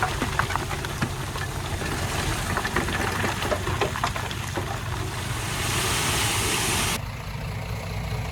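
Heavy diesel earthmoving machinery running, with scattered clanks and rattles of metal and stone. About seven seconds in, the sound changes suddenly to a duller, quieter engine hum.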